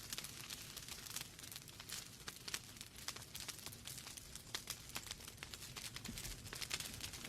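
Wood fire crackling in a fireplace: burning logs give off many irregular sharp pops and snaps over a steady soft hiss and low rumble of the flames.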